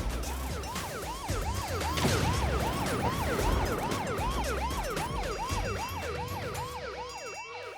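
Cartoon train's emergency siren wailing in a fast yelp, about three quick up-and-down whoops a second, keeping an even pace throughout.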